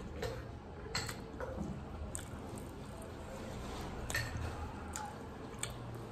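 Wet chewing and lip-smacking mouth sounds while eating rice and chicken by hand, with a handful of sharp wet clicks at irregular intervals and soft squishing of fingers mixing the rice.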